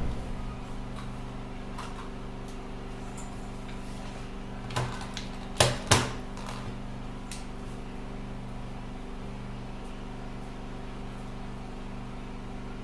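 A steady low hum of several even tones, with three short sharp clicks in the middle, the last two close together and loudest.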